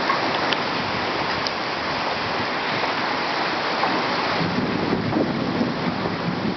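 Heavy thunderstorm rain pouring steadily, with wind gusting against the microphone; the gusts grow stronger about four and a half seconds in.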